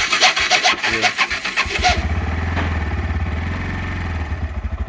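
Pulsar N160 motorcycle engine cranked on the electric starter for about two seconds with a fast, even chatter, then catching about two seconds in and settling into a steady idle. The owner hears an abnormal noise from it that he cannot identify.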